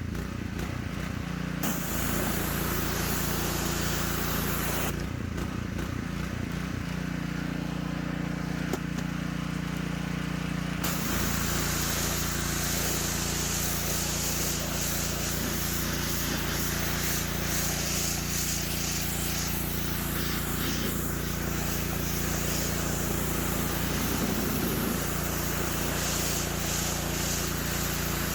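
Simpson PS3228-S gas pressure washer running steadily, its small engine's hum joined by a high hiss from the spray. The hiss drops out for about six seconds, about five seconds in, while the engine keeps running, then comes back.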